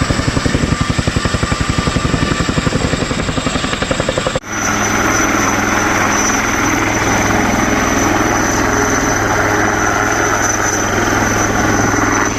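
Helicopter rotor chop, a fast, even thudding of the blades passing overhead. About four seconds in it cuts abruptly to a steady aircraft engine drone with a low hum.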